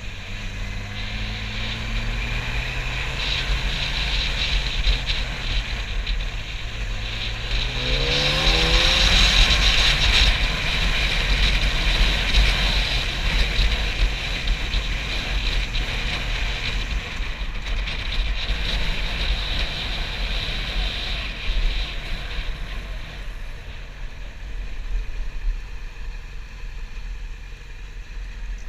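Yamaha YZF-R6 sport bike's inline-four engine accelerating, its pitch rising slowly and then climbing steeply around seven to nine seconds in. After that the engine is mostly buried under heavy wind rush buffeting the microphone at speed.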